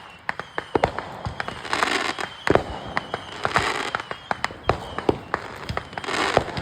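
Consumer fireworks going off in quick, irregular succession: many sharp pops and bangs, with hissing, crackling bursts swelling up a few times.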